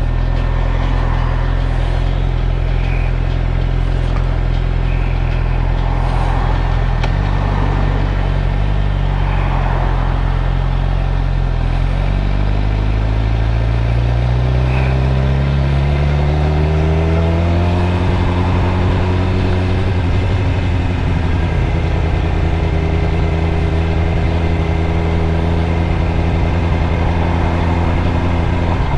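2013 Suzuki GSX-R600's inline-four engine running at a low, steady note, then rising in pitch from about twelve seconds in as the bike accelerates. It settles into a steady, higher cruising note by about twenty seconds.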